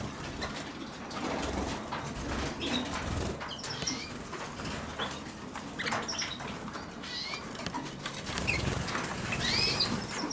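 Colour canaries in their cages and flight giving scattered short chirps and calls, with wings fluttering; a curved, rising-and-falling note stands out near the end.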